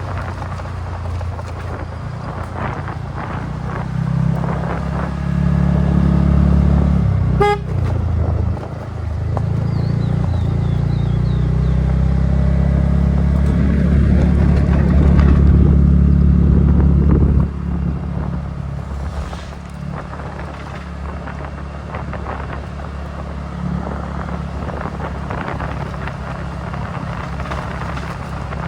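TVS Ntorq 125 scooter's single-cylinder engine running on the move, rising in level as the throttle opens and easing back at about seventeen seconds in. A short horn toot sounds about seven seconds in.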